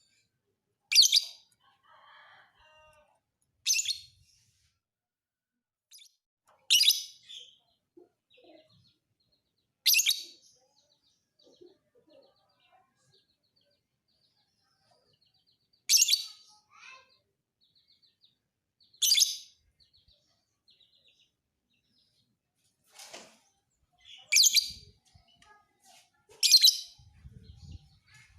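Lovebird calling with short, shrill chirps, about nine single calls spaced irregularly a few seconds apart, with faint soft chatter between them. A low rumble comes in near the end.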